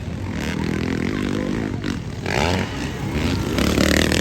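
Motocross dirt bikes running on the race track, their engine pitch rising and falling as they rev.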